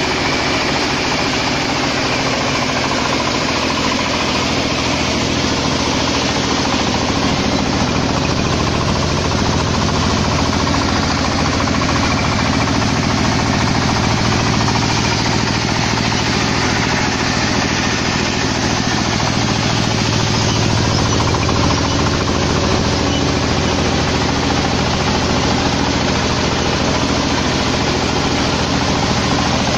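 Mini combine harvester's engine running steadily, a loud, even drone with no change in speed.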